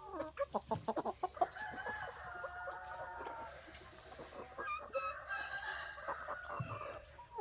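Chickens clucking with roosters crowing, several long calls overlapping. A quick run of clicks and rattles comes in the first second or so.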